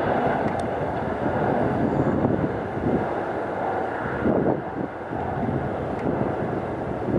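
Jet airliner engines at takeoff power, a steady wide noise with a faint high whine.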